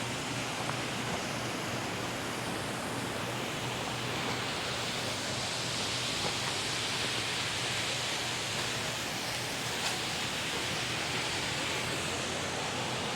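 Waterfall: a steady rush of falling water, a little brighter through the middle.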